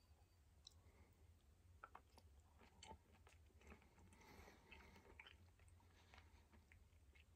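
Very faint chewing of a soft coconut gel cube, scattered small wet mouth clicks, over a low steady hum.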